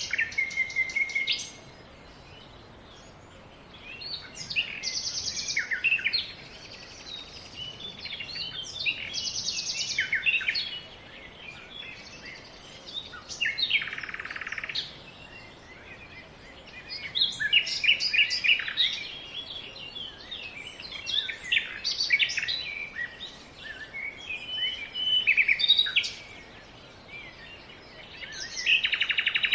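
Songbirds singing: quick chirps and trilled phrases of a second or two, with short pauses between them, over a faint steady hiss.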